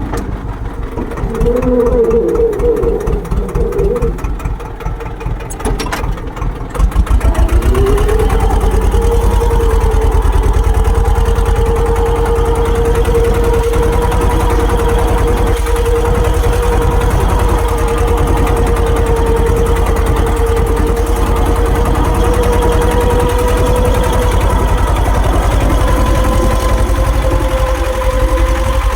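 Swaraj tractor's diesel engine running. It is uneven for the first several seconds, then about seven seconds in it suddenly gets louder and settles into a steady, even run with a constant whine over the rumble.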